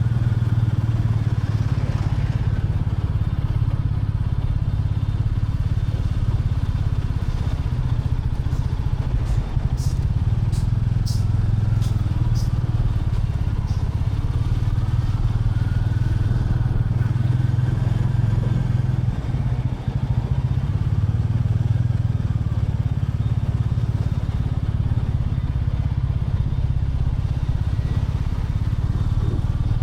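Royal Enfield Classic 350's single-cylinder engine running steadily as the motorcycle cruises, with a few sharp ticks about ten seconds in.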